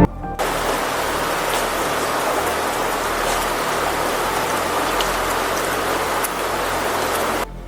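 Steady rain falling, an even hiss with scattered drop ticks. It starts about half a second in and cuts off suddenly just before the end.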